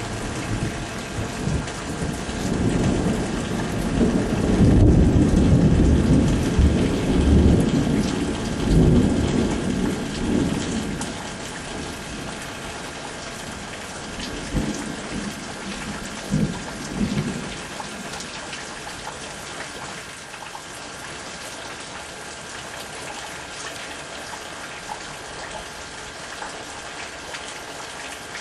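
Thunder rolling over steady rain. The long rumble swells a couple of seconds in, is loudest in the first third, and dies away. A few shorter rumbles follow past the middle, then only the rain hiss remains.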